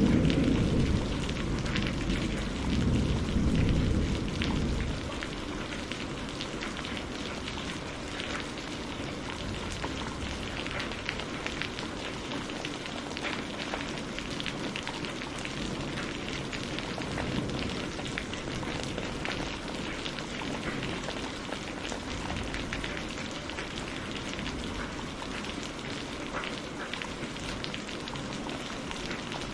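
Steady heavy rain falling, with fine drops pattering. A deep rumble of thunder fades away over the first few seconds.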